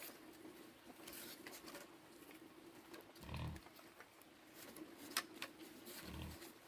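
Pig grunting low twice, about three seconds in and again near the end, among scattered light clicks and knocks.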